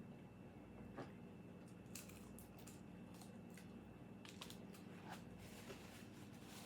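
Faint chewing and crunching of crispy fried chicken skin: soft, irregular clicks and crunches over a low steady hum.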